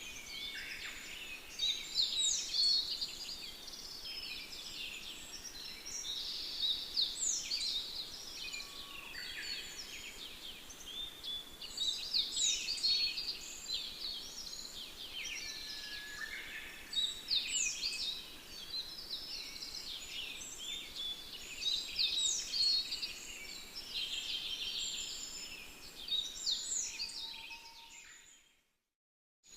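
Songbirds singing in a busy chorus of chirps and quick falling notes, with one loud phrase recurring about every five seconds. It fades out shortly before the end into a brief silence, then starts again.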